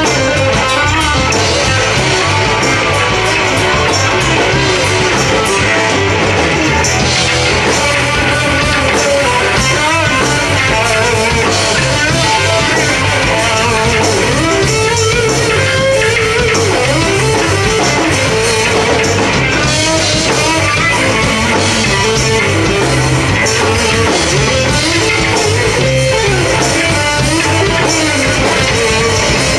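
Live rock band playing loudly and without a break: electric guitar over a drum kit, with no singing.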